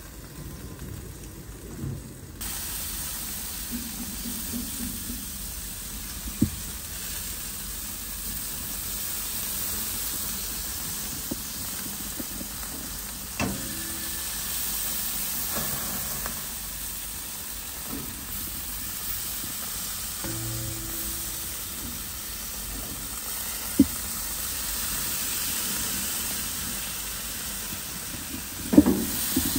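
Food sizzling as it fries in hot oil in a pan. The sizzle starts suddenly about two seconds in, and a utensil knocks against the pan now and then.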